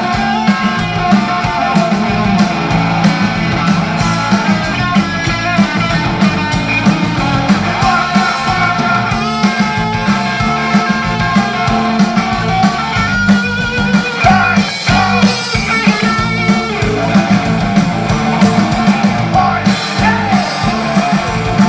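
Live rock band playing an instrumental passage: electric guitar over bass and a steady drum beat.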